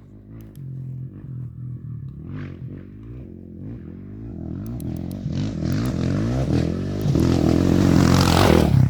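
An off-road racing motorcycle engine approaches, revving up and down through the gears and growing steadily louder, with a rushing hiss rising as it nears and the loudest moment near the end.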